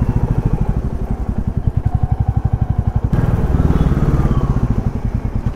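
Royal Enfield Classic 350's single-cylinder engine running under way, a steady, rapid, even thumping beat.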